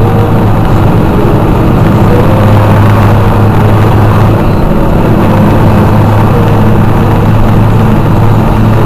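Motorcycle engines running with a loud, steady low drone.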